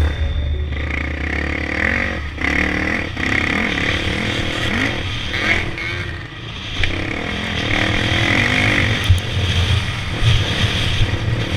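Motocross bike engines revving, the pitch climbing and dropping again and again as riders open and close the throttle.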